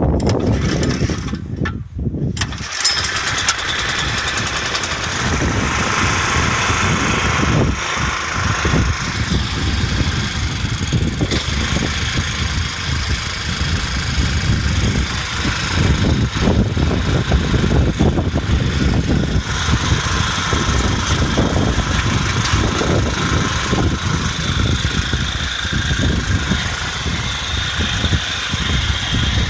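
Small engine of a Mitsubishi My Boy MMR65 mini tiller being started. It catches about two seconds in, then runs steadily with a rapid, even firing beat.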